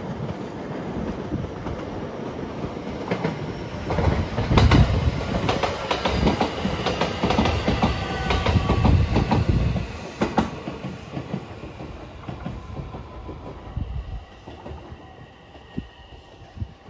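JR West 227 series electric local train passing close by, its wheels clacking over the rail joints. It builds over the first few seconds, is loudest from about four to ten seconds in, then fades away.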